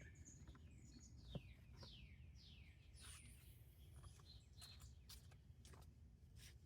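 Near quiet, with faint bird chirps throughout: short notes falling in pitch, repeated every half second or so. A few faint clicks and a light knock about one and a half seconds in.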